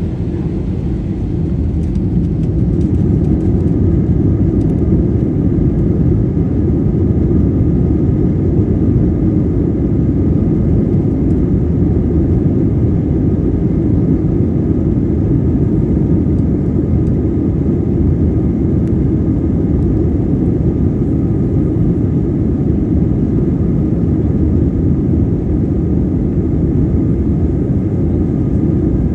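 Airbus A320 jet engines at high thrust: a steady, loud low rumble with faint whining tones above it. It swells over the first few seconds, then holds level.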